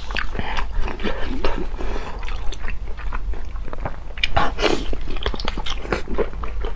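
Close-miked mukbang chewing and biting into a large blood sausage: wet mouth smacks and clicks throughout, with a louder wet bite about four seconds in.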